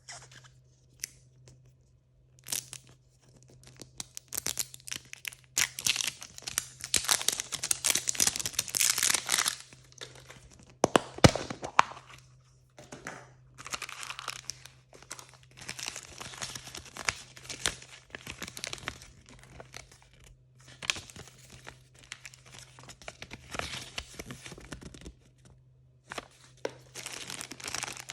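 Blind-bag packaging being torn open and crinkled by hand in repeated spells, with a few sharp snaps about eleven seconds in.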